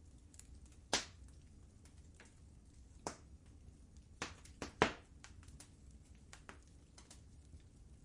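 Wood fire crackling in a fireplace: scattered small ticks with a few sharp pops, the loudest about a second in and a cluster of three just before the five-second mark, over a faint low rumble.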